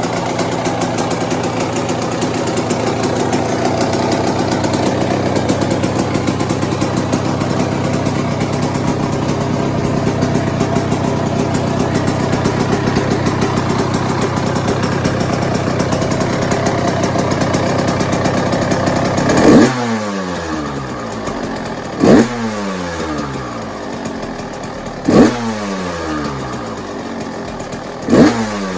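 A 1996 Yamaha YZ125 two-stroke single-cylinder dirt bike engine runs at a steady speed, then is blipped four times in the second half. Each rev spikes sharply and the pitch falls back down.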